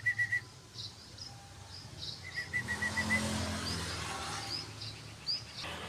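Sooty-headed bulbul (trucukan) calling: a quick run of short chirping notes at the start and again about two seconds in, with brief upswept notes in between. A low rumble of passing traffic swells in the background through the middle.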